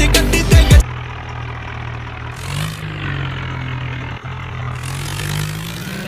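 Hip hop music with heavy bass cuts off about a second in, leaving a tractor engine running at idle, its pitch rising slightly twice as it is revved a little.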